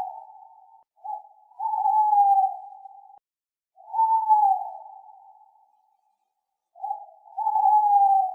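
An owl calling repeatedly, three times: each call is a short note followed by a longer hoot that falls slightly in pitch, with a gap of a second or so between calls.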